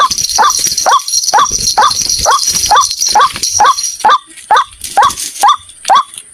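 White-breasted waterhen calling: a short, rising note repeated about twice a second. This is the waterhen's repetitive call used as a lure to trap the birds.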